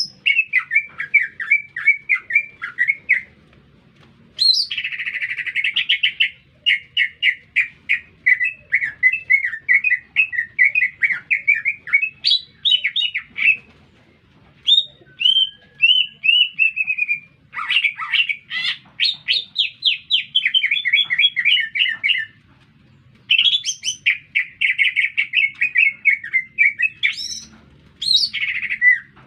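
Green leafbird (cucak ijo) singing continuously in long phrases of rapid, varied chirps and whistled notes, with brief pauses between phrases.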